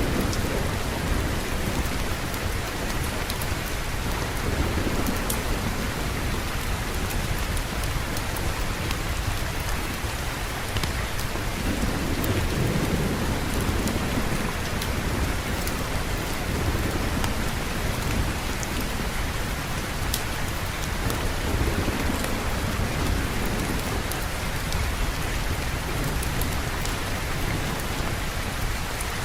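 Steady heavy rain hissing without a break, with low thunder rumbling up and fading several times, loudest about twelve seconds in. Scattered faint sharp ticks sit over the rain.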